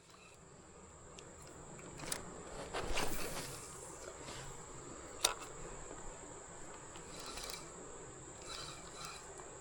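Insects giving one steady high-pitched buzz, with a few light knocks, a brief rustle about three seconds in and a sharp click a little after five seconds.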